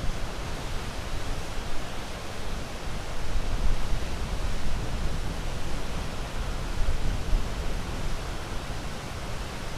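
Sea waves: a continuous rushing wash of surf with a deep rumble, swelling and easing unevenly.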